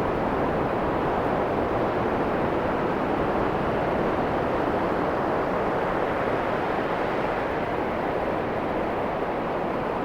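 Steady rushing of ocean surf mixed with wind on the microphone.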